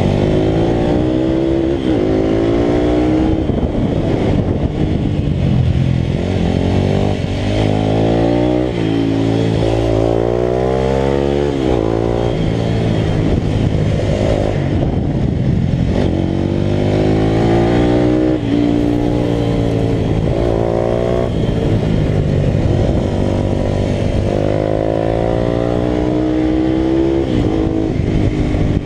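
Italika RT200 racing motorcycle engine under hard acceleration, revving up and dropping back again and again as it shifts through the gears.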